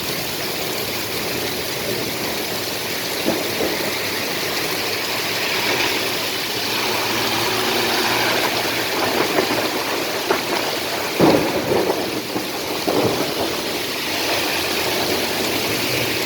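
Heavy rain pouring down in a steady rush, with a few louder short knocks and splashes around eleven to thirteen seconds in.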